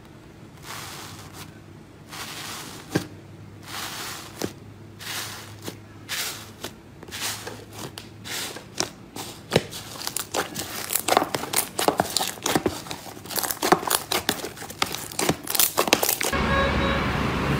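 Slime being squeezed and stretched by hand: soft squishing and crinkling at first, then a quick run of sharp crackling pops, the kind made by crunchy slime. About a second before the end this gives way to a steady, louder hum.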